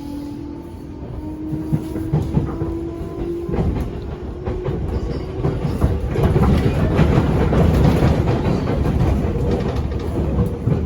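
Interior running sound of a JR 205 series 500-subseries electric train, heard aboard motor car MoHa 205-512. A motor hum rises slowly in pitch over the first few seconds as the train picks up speed. Then a louder wheel-and-rail rumble takes over, with clacks over rail joints.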